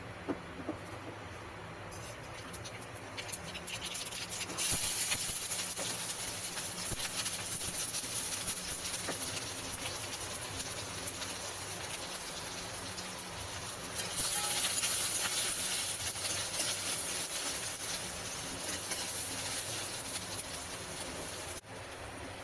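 Food sizzling and crackling as it fries in hot oil in a pan. The sizzle gets louder about four and a half seconds in, swells again about fourteen seconds in, and drops suddenly near the end.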